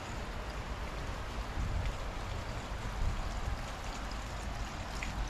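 Steady rain falling in a thunderstorm: an even hiss with a low, uneven rumble underneath and a few faint drip ticks near the end.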